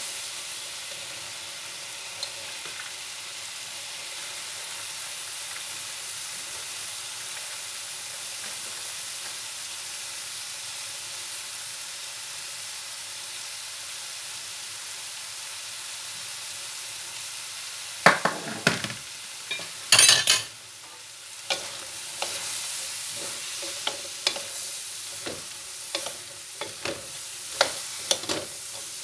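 Green beans sizzling in hot oil in a wok, a steady hiss. Past halfway come two loud clatters, then a wooden spatula scrapes and knocks against the wok in quick repeated strokes as the beans are stirred.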